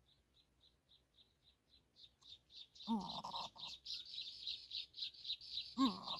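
Greater coucal chicks begging with a fast run of high, short chirps, about four a second. The chirps are faint at first and grow much louder and busier about two seconds in. Twice, near three seconds and just before the end, a short lower-pitched call with a falling pitch cuts in.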